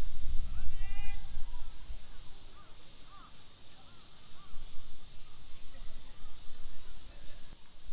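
Crows cawing several times over a steady high-pitched hiss, with a low rumble in the first two seconds.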